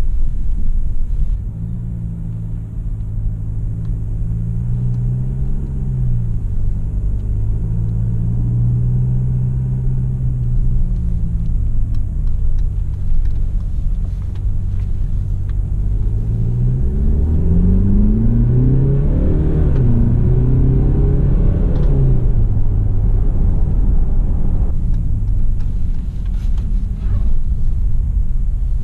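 Mercedes-Benz GLE 300d's four-cylinder diesel engine heard from inside the cabin while driving, over a steady low rumble. The engine note rises as the SUV accelerates and drops in steps as the 9-speed automatic shifts up, most clearly a little past halfway.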